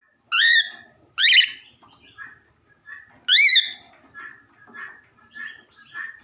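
Budgerigars calling: three loud, harsh calls that rise in pitch in the first few seconds, then a run of softer chattering calls.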